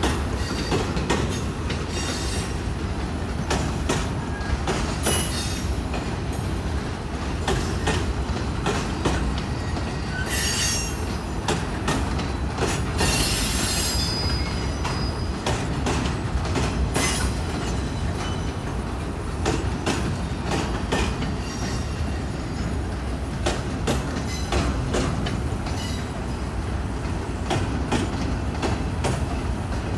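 Freight train box cars rolling past at steady speed: a continuous low rumble with frequent clicks of the wheels over rail joints, and short bursts of high wheel squeal, the loudest about ten and thirteen seconds in.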